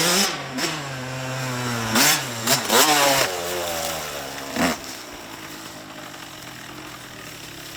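Small dirt bike engine revving up and down as the bike rides past, its pitch rising and falling with the throttle. There are loud rasping bursts about two, three and four and a half seconds in, then the engine drops to a quieter, distant drone.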